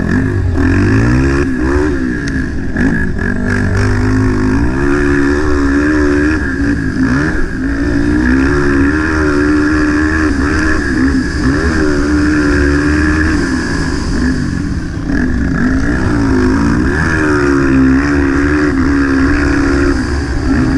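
230cc motocross motorcycle engine racing, its pitch climbing and dropping again every second or two as the throttle is opened and shut through the track's corners and jumps.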